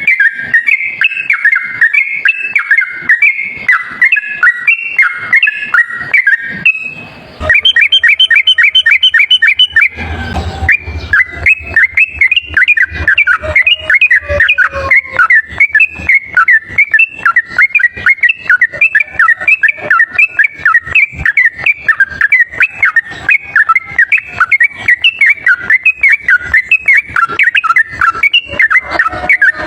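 Yellow-vented bulbul (trucuk) singing a rapid, continuous chatter of short whistled notes. The chatter breaks off briefly about seven seconds in, gives way to a quick run of evenly repeated higher notes, and resumes after a short burst of noise around ten seconds.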